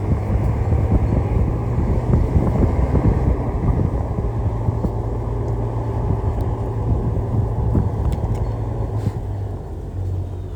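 Heavy diesel engine of earthmoving machinery running steadily with a low drone, overlaid by irregular rattling and clatter.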